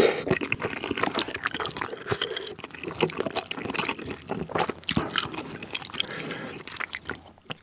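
Close-miked wet eating sounds of spicy tteokbokki in thick sauce: a slurp as the rice cakes go in, then steady squelching chewing and lip smacks. The loudness falls off just before the end.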